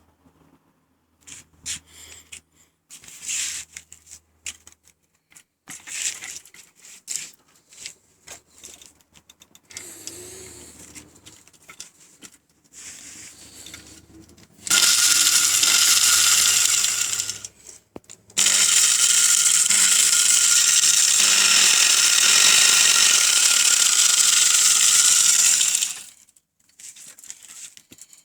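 Scattered clicks and knocks of handling, then a homemade angle-grinder sawmill running twice: a loud steady high whine for about three seconds, then again for about eight seconds, each starting and cutting off abruptly.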